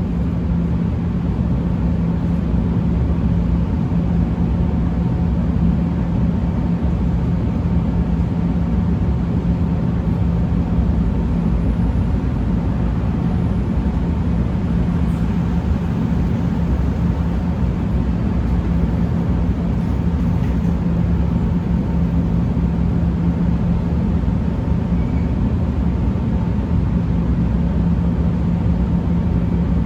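Steady, unchanging vehicle rumble with a constant low hum running through it.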